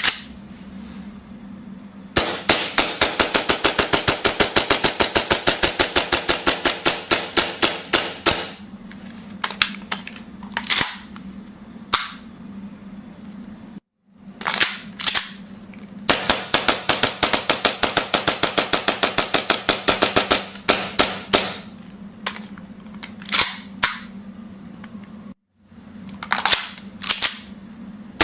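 Tokyo Marui Hi-Capa 5.1 gas blowback airsoft pistol with a lightweight slide firing. There are two fast strings of shots, several a second, each lasting a few seconds, with single and paired shots between them.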